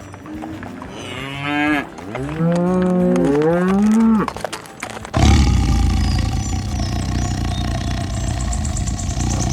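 Cattle mooing: a few drawn-out calls that rise and fall in pitch. About five seconds in, a different, dense steady sound cuts in suddenly and runs on.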